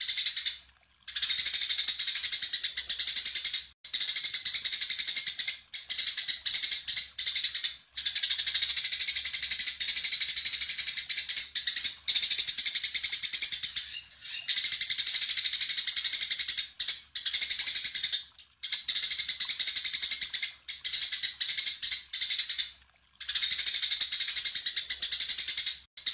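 Songbird singing a rapid, dense chattering song in long unbroken phrases with brief pauses between them, a masteran recording used to train cage birds.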